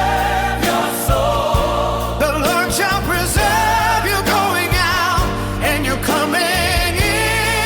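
Sung worship music: a singing voice with vibrato, held and sliding over sustained backing chords.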